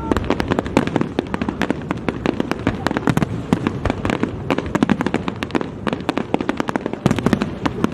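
Fireworks exploding in rapid, continuous crackling cracks and pops, many per second.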